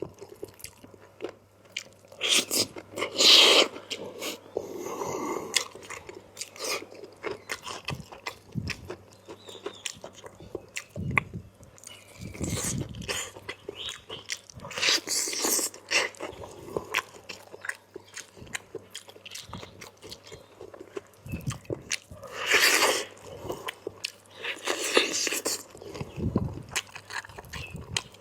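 Close-up eating sounds of a person biting and chewing chicken curry with potato: many small clicks throughout and several louder bursts of chewing.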